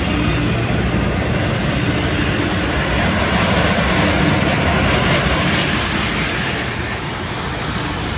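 Double-stack intermodal freight train rolling past at close range: a steady roar of steel wheels on rail from the loaded container well cars, with a faint steady hum underneath.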